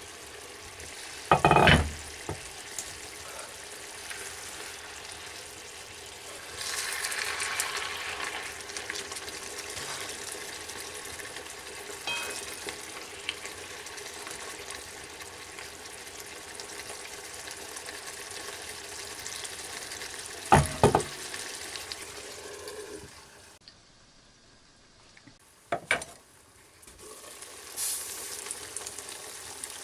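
Food frying with a steady sizzle, broken by a few loud sharp knocks. The sizzle cuts out for about two seconds near the end, then comes back.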